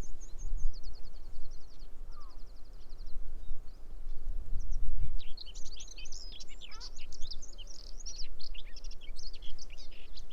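Male common whitethroat singing its fast, scratchy warble from about five seconds in. Before that, a bird gives two short rapid rattles of high ticks. Wind rumbles low on the microphone throughout.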